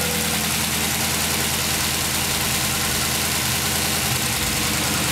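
Chrysler 300C SRT8's Hemi V8, fitted with an SRT Max custom-grind cam and SLP LM1 exhaust, idling steadily moments after its first start following the rebuild. It sounds pretty healthy.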